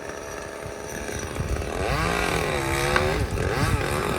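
Chainsaw running, cutting a dead cherry tree. It runs steadily, then about two seconds in it is revved harder and its pitch repeatedly dips and climbs back.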